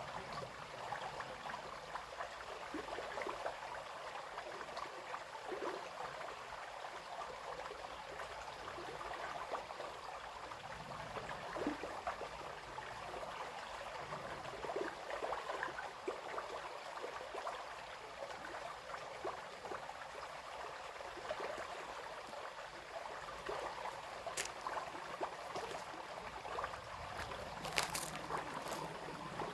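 Small brook trickling and babbling steadily, with many small gurgles and splashes. A few brief sharp clicks stand out near the end.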